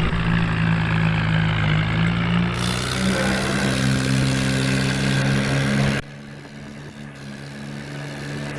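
John Deere 5055 tractor's diesel engine running steadily under the load of a trolley, rising a little in pitch midway. It becomes suddenly quieter about six seconds in.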